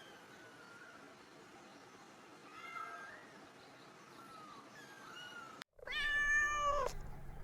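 Kittens meowing: several faint, high, thin mews, then one loud, long meow about six seconds in.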